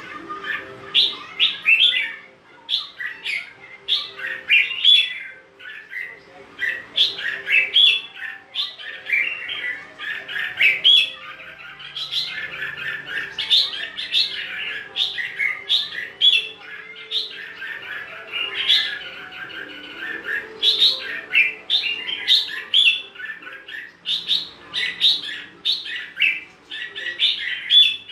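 Red-whiskered bulbul song: short, quick whistled phrases that follow one another with only brief gaps.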